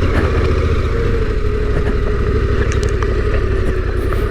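Yamaha Tenere 700's 689 cc parallel-twin engine running under steady throttle on a climb, its note holding at an even pitch.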